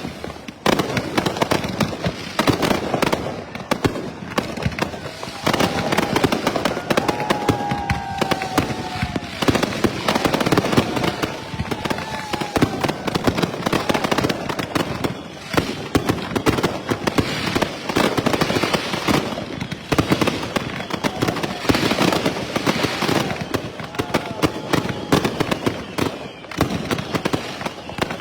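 Consumer firework cakes firing in a rapid, continuous barrage of bangs and crackles, quick-fused so the shots come very fast.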